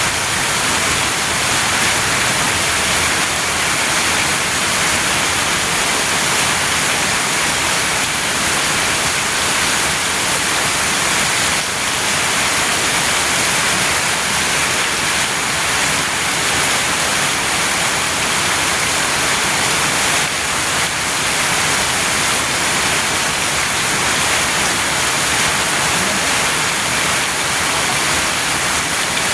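Very heavy rain pouring down as a loud, steady hiss.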